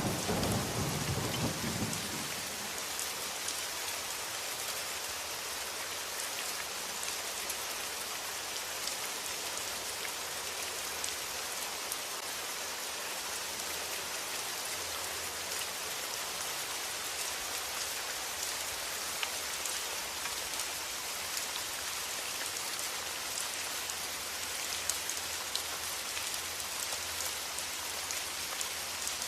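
Steady rain with scattered sharp drop ticks. A low rumble of thunder dies away about two seconds in.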